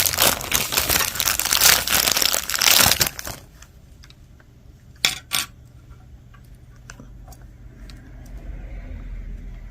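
Packaging crinkling and tearing for about three seconds as costume jewelry is unwrapped. Then two sharp clicks of jewelry pieces knocking together about five seconds in, and a few faint taps.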